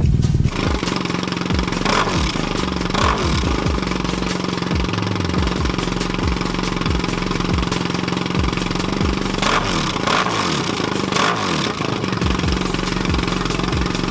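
BMW R nineT's air/oil-cooled boxer twin running through a loud aftermarket exhaust, the revs rising and falling several times.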